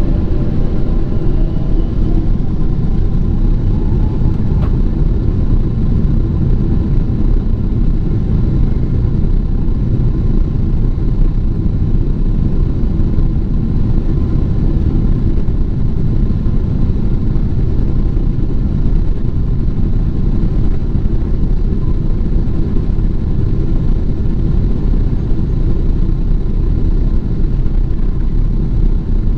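Boeing 777-200 jet engines at takeoff power heard from inside the passenger cabin, a loud steady low rumble as the airliner accelerates down the runway, with a rising whine over the first few seconds as the engines spool up.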